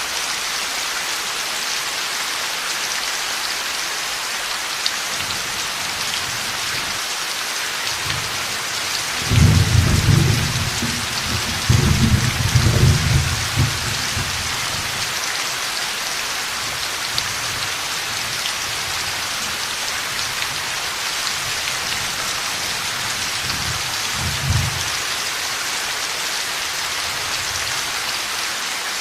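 Heavy steady rain with a rumble of thunder about nine seconds in that rolls on for several seconds, and a shorter low rumble later on.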